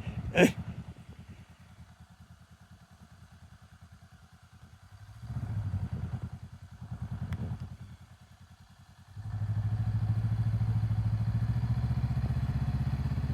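Honda Rebel motorcycle engine idling with quick, even firing pulses. It is blipped louder twice with small throttle openings about five and seven seconds in, then from about nine seconds in it suddenly runs steadily louder at higher revs under throttle.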